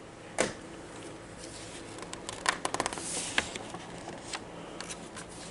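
Handling noise from paper, such as a picture book being handled or its page turned: a sharp tap about half a second in, then a cluster of quick clicks and rustles in the middle.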